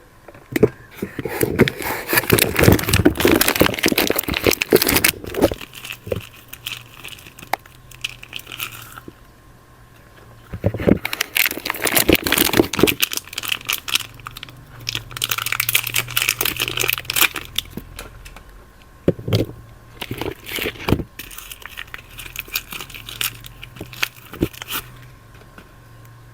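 Soap wrappers being crinkled and torn open by hand, in spells of a few seconds of crackling and tearing with quieter handling between.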